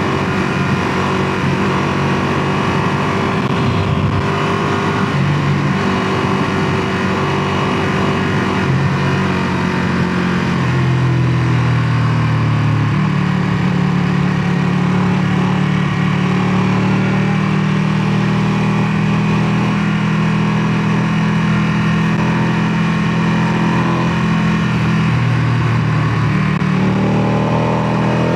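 Ducati Panigale 959's Superquadro L-twin engine and exhaust running at fairly steady revs, then revving up near the end.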